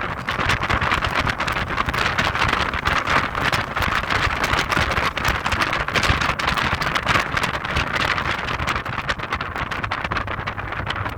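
Heavy wind buffeting on the microphone during a drive in an Audi TT, with the car's engine and road noise rumbling underneath.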